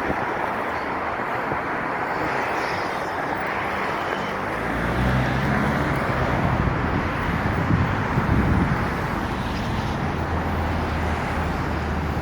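Steady rushing road noise of a moving vehicle, with a low engine hum and rumble coming in about four and a half seconds in.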